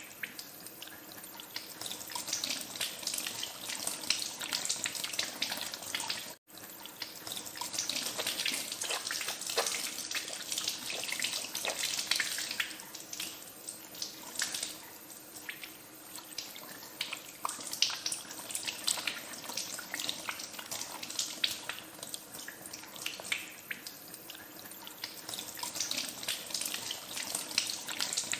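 Tap water running into a sink while hands are washed under it, with steady splashing and spattering. The sound cuts out for an instant about six seconds in.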